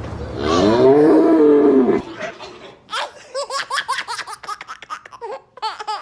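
A loud drawn-out animal call, rising then falling in pitch, for about the first two seconds, then a baby laughing in quick repeated bursts.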